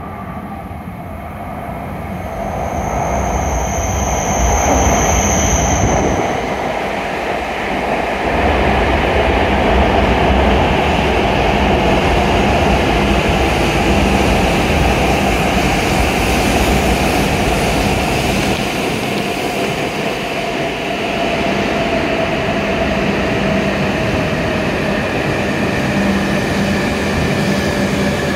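E7-series shinkansen pulling into the platform and braking. Its running noise grows over the first few seconds into a steady rumble and hiss, with a brief high-pitched tone about three seconds in. A whine sinks slowly in pitch as the train slows.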